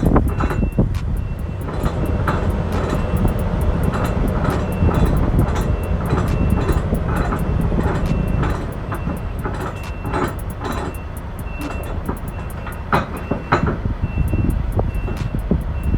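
Reversing alarm beeping in an even, repeating rhythm over the low rumble of a heavy vehicle's engine, with scattered metal clanks and knocks.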